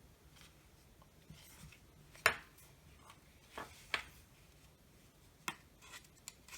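Scattered sharp clicks and knocks of hard plastic and metal drill parts being handled and prised apart during disassembly, the loudest one about two seconds in.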